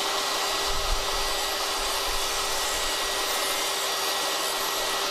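Power tool motor running steadily: an even hiss with a constant hum under it.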